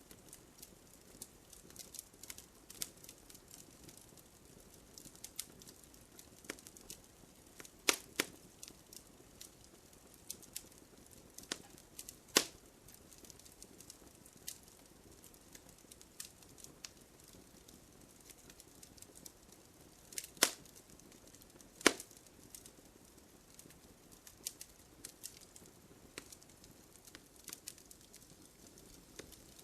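Wood fire burning with a faint steady rustle, scattered crackles and pops, and a few loud sharp snaps from the burning wood, four standing out over the rest.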